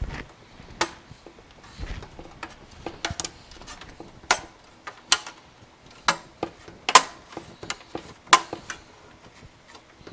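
Irregular sharp clicks and taps from handling PC hardware, consistent with a metal I/O shield being fitted and pressed into a computer case. The loudest click comes about seven seconds in.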